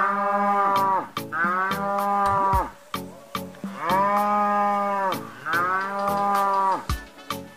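Toy cow's electronic moo, repeated: four drawn-out calls, each about a second long, the first already under way, over steady, evenly spaced clicking.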